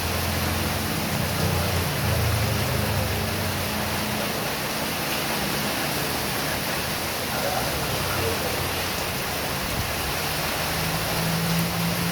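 Heavy rain pouring down steadily, a dense even hiss. A low hum sits under it, shifting in pitch and strongest near the end.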